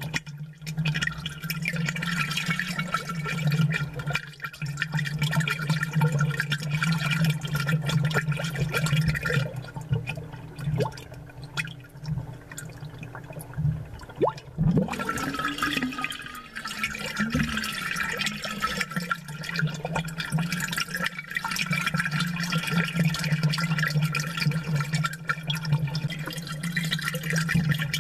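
Amplified aquarium bubbling: a steady stream of air bubbles gurgling through the tank water, over a continuous low hum. The bubbling thins out for a few seconds around the middle, then picks up again.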